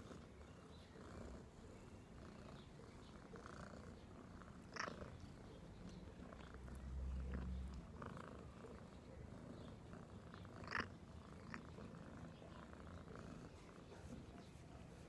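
A cat purring, a low steady rumble that grows louder for about a second near the middle, with two short sharp clicks, about five and eleven seconds in.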